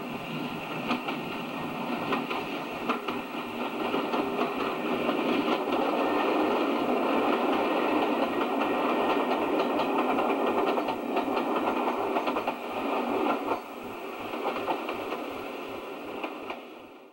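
First-generation British Rail diesel multiple unit passing close by: diesel engine running, wheels clicking over the rail joints. It grows louder as the coaches go by and drops off suddenly about thirteen seconds in.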